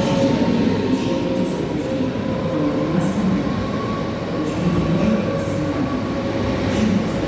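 A train running at a station platform, with a steady rumble and a whine near 1 kHz that rises slowly, along with brief high squeals or hisses.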